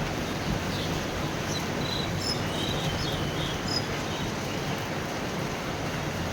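Steady rain falling, an even hiss, with a handful of short high chirps for a couple of seconds early in the middle.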